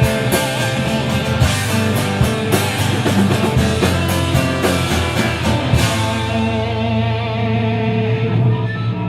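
Rock band playing an instrumental passage with electric guitar, bass and drums. About six seconds in, the drum hits stop and a held guitar chord rings on, typical of a song's ending.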